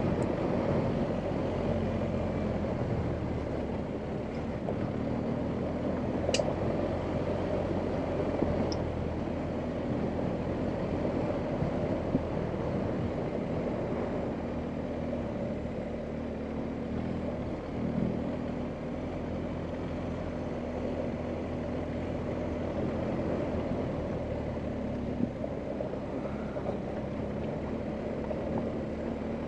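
BMW R1250GS Adventure's 1254 cc boxer twin running at a steady, even pace off-road. A few short sharp clicks sound over it, and the engine note dips briefly a little past halfway.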